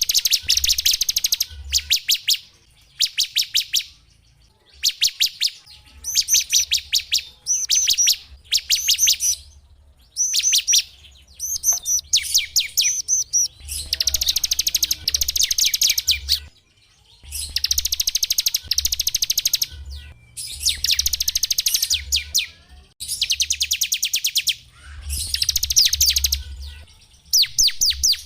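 Small songbird singing fast, high trills in repeated bursts of one to three seconds, with short pauses between them.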